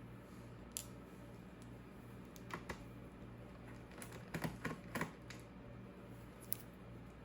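Scattered light clicks and taps of hands handling the laptop and its packaging, with a quick cluster of them about four to five seconds in, over a faint steady low hum.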